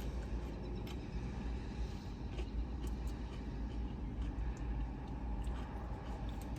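Steady low rumble of a car idling, heard from inside its cabin, with faint scattered ticks over it.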